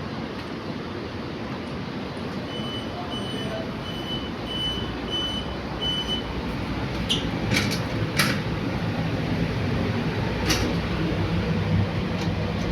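Old Otis goods lift: a steady low rumble of the car and its machinery, with a run of six short high beeps in the first half and several sharp clicks after them; the rumble grows a little louder near the end.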